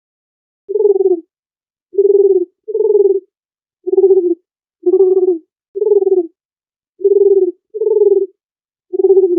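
Dove cooing: a series of short, low coos, about one a second, some in close pairs, starting just under a second in.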